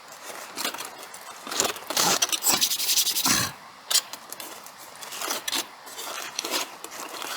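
Irregular scraping and rubbing handling noises with light clinks, loudest from about two to three and a half seconds in.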